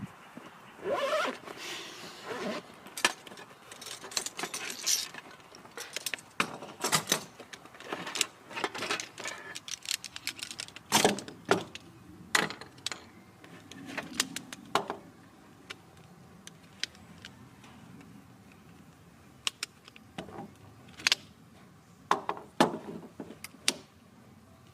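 Objects being handled: irregular sharp clicks and clinks with some rustling, busy through the first half, sparse for a few seconds, then busy again near the end.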